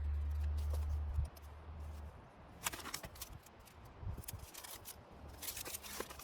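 A low rumble for about the first second, then two short runs of light clicks and scrapes from small hard parts being handled.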